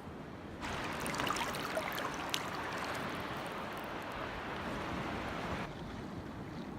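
Steady rush of moving water, a broad hiss with no tones. About half a second in it turns brighter and fuller, and it drops back just before the end.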